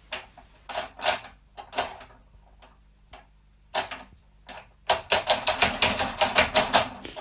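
A series of sharp taps or clicks, scattered at first, then coming fast at about six or seven a second from about five seconds in.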